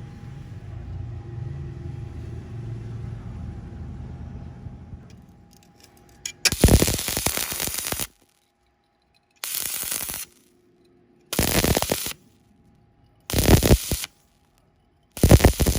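Stick-welding arc crackling in five short bursts of about a second each, separated by silence, starting about halfway through. Before them a low steady rumble fades out.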